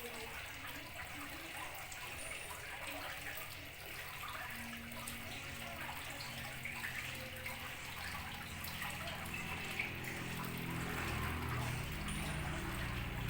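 Steady trickling and splashing of running water. A low hum builds underneath from about eight seconds in and grows louder toward the end.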